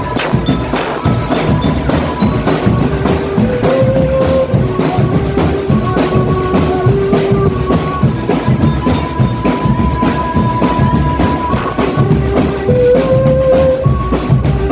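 A marching drum band playing: rapid, steady drum strokes, with a melody of long held notes carried above them.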